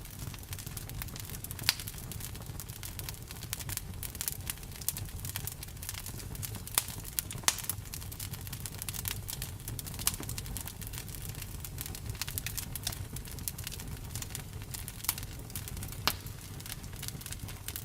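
Campfire burning: a dense, irregular run of small wood crackles with a few sharper pops, over a steady low rumble.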